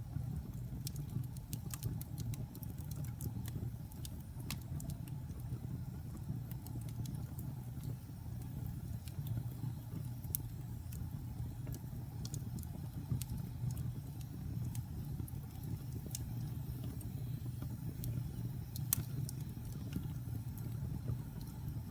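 Wood fire burning in a fireplace: a steady low rumble of flames with irregular crackles and pops throughout, a few of them sharper and louder.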